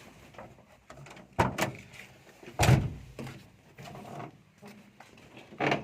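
Several sudden knocks and thuds at uneven intervals: two close together about a second and a half in, a heavier low thud a little before three seconds in, and another near the end.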